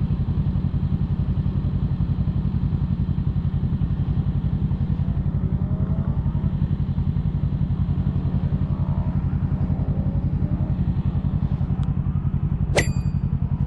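Kawasaki Ninja 650's parallel-twin engine idling with a steady, even low pulse. A single sharp click comes near the end.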